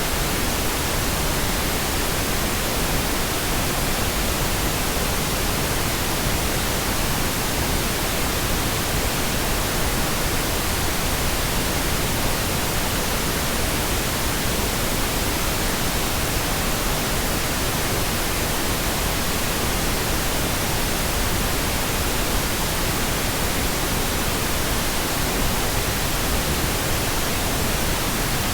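Pink noise: a steady, unchanging hiss spread across all pitches, without breaks or events.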